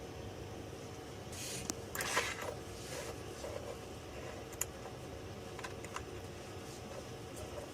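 A few light clicks and a brief scraping rustle, about two seconds in, over a steady low hum.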